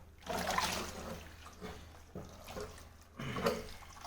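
Water splashing and sloshing in a few irregular bursts in the tub of a compact portable washing machine, the strongest shortly after the start and again after about three seconds.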